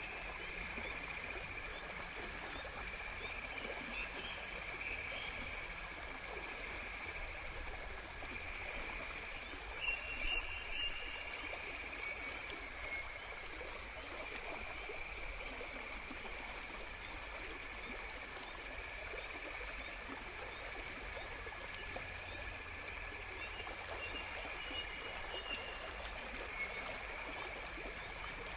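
Steady outdoor nature ambience: an insect chorus holding high steady tones over a constant even hiss. The highest drone changes a couple of times along the way.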